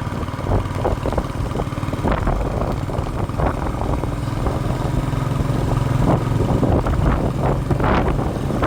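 Royal Enfield motorcycle engine running under way, with wind rushing over the microphone.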